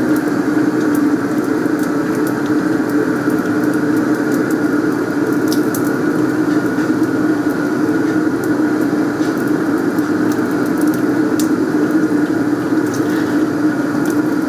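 A steady, loud mechanical roar with scattered faint crackles and clicks over it.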